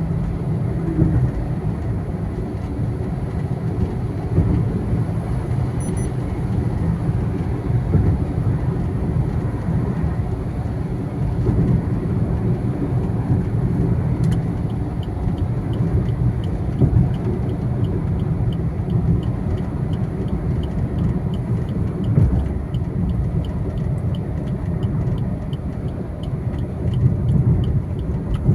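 Steady road and engine noise from a moving vehicle, an uneven low rumble. From about halfway a faint regular ticking comes in, about two ticks a second.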